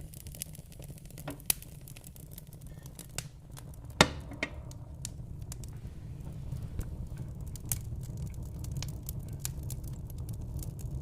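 Wood fire in a fireplace crackling: scattered sharp pops and snaps over a steady low rumble of the flames, with one loud pop about four seconds in.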